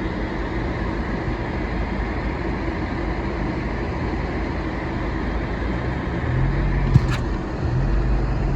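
Car engine and tyre noise heard inside the cabin while driving on a snow-covered road. The engine note grows louder about six seconds in, and there is one sharp click about seven seconds in.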